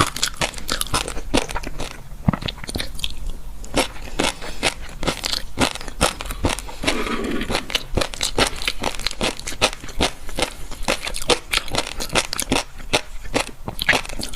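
Close-up chewing of crisp, crunchy food: rapid, irregular crunches and crackles of bites being chewed, without a pause.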